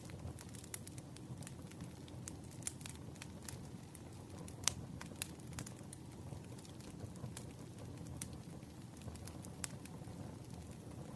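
Firewood burning in a campfire: irregular crackles and pops over a steady low rumble of the flames, with one sharper pop about halfway through.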